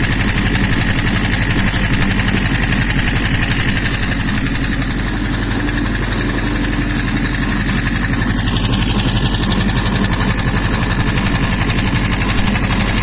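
Subaru EJ20G 2.0-litre turbocharged flat-four running steadily at idle on a test stand, warmed up to about 89 degrees.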